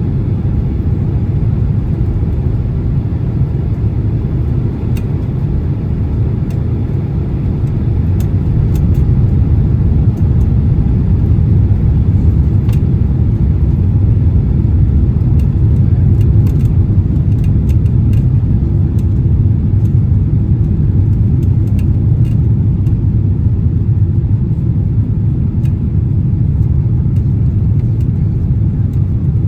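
Cabin rumble of a Boeing 767-300's engines and airflow during a go-around, a steady deep roar that grows louder about eight seconds in and stays up. Faint scattered clicks and rattles ride over it as the aircraft is thrown about by turbulence.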